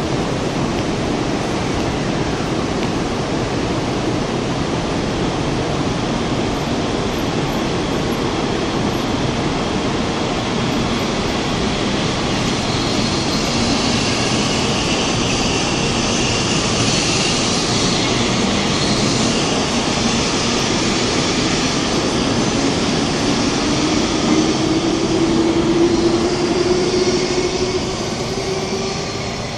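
Taiwan High Speed Rail 700T high-speed train running, a steady loud rushing noise. A rising whine comes in near the end as the sound peaks, then the noise falls away.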